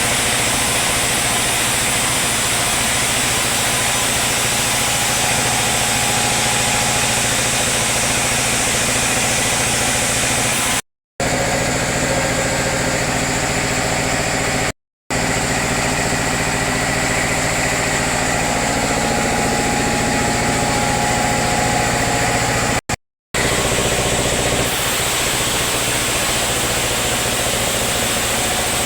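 Sawmill machinery running with a steady, engine-like hum, broken by three brief drops to silence.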